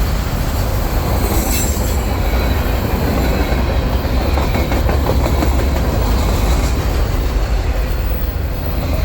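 Long freight train of tank and cattle cars rolling past close by: a steady, loud rumble and clatter of wheels on the rails, with a brief high-pitched screech about a second and a half in.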